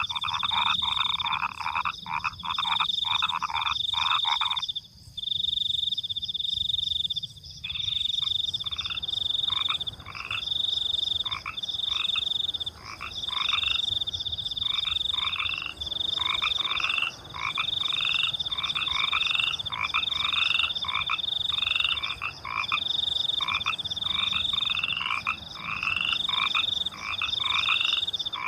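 A chorus of frogs croaking in rapid pulsed calls, with a high trill of crickets in repeated bursts above them. The frogs fall silent for a few seconds about five seconds in, then start up again.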